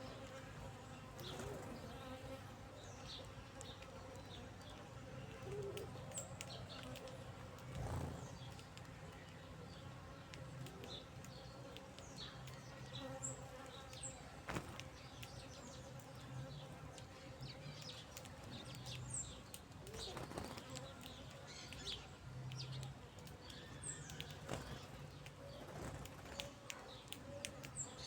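Insects buzzing in a steady low hum, with brief faint high-pitched bird chirps and scattered sharp clicks throughout.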